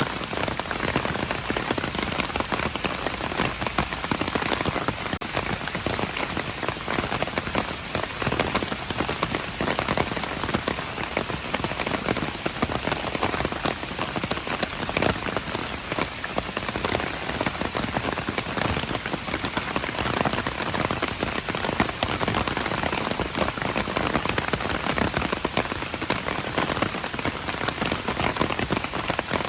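Steady rain falling and pattering on hard surfaces, a dense even hiss full of fine drop ticks.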